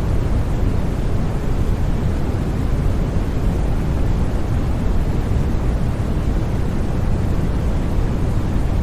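Steady generated sleep noise sold as white noise, even and unchanging, with most of its weight low so that it sounds like a deep, muffled rush rather than a bright hiss.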